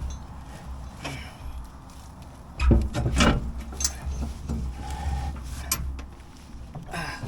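Metal clunks, clicks and scraping from a tractor PTO driveshaft being worked onto the PTO stub, with the loudest knocks about two and a half seconds in.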